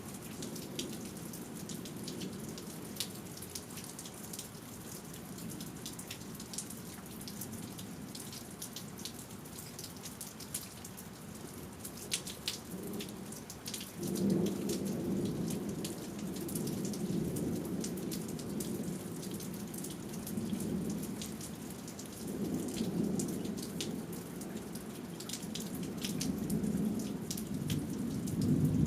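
Steady rain with sharp ticks of drops striking nearby surfaces. About halfway through, a low rumble of thunder sets in suddenly and rolls on, swelling again twice toward the end.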